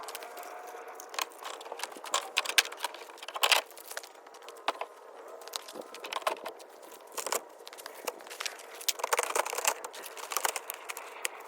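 Irregular handling noises: scattered crinkles, clicks and light knocks of gear or plastic being moved about by hand.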